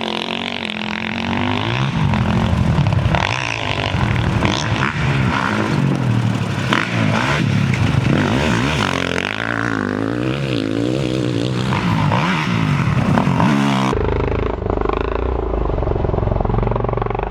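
Several pit bike engines revving up and down over one another, their pitch repeatedly rising and falling as the riders accelerate and back off. About fourteen seconds in, the sound switches abruptly to a steadier, lower engine note.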